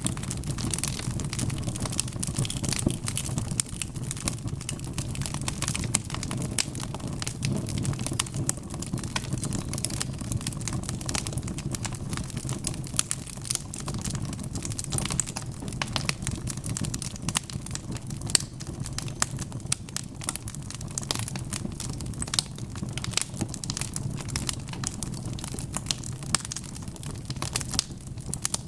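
Log fire crackling: frequent sharp pops and snaps scattered over the steady low rumble of the burning wood.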